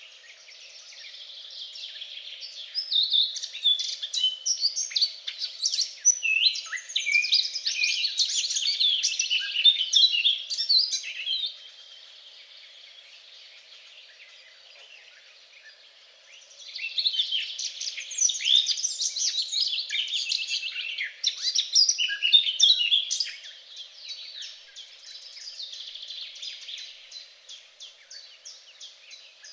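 Songbirds singing in rapid, high-pitched phrases, in two long loud spells with a quieter lull of several seconds between them and softer song near the end.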